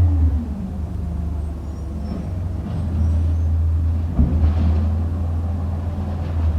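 Amrep side-loader garbage truck's engine running steadily, with a short hiss about four and a half seconds in.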